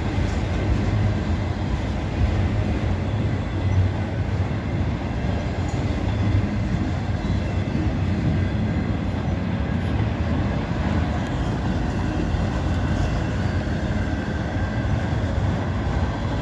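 Slow-moving mixed manifest freight train's cars rolling past on the rails: a steady rumble of steel wheels on track.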